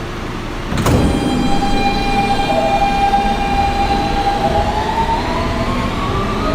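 Subway car doors shutting with a thud about a second in. Then the R160B's Siemens traction propulsion whines as the train starts to pull out: a steady tone that begins rising in pitch partway through as the train accelerates.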